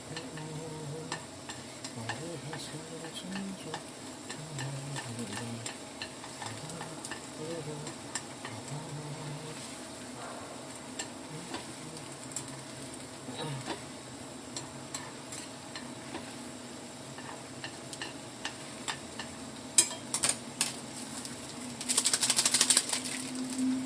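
Chopsticks stirring and mixing sticky instant jjajang noodles (Chapagetti), with many light clicks against the container throughout and a short burst of rapid clattering near the end.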